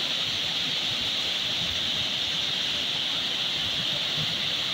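Waterfall in high flow: a steady, loud rush of falling water.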